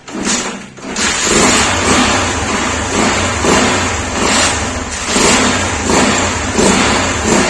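Small motorcycle engine kick-started after a new kickstart return spring is fitted: a couple of kicks, then it catches about a second in and keeps running. The level swells and dips roughly once a second as the throttle is worked.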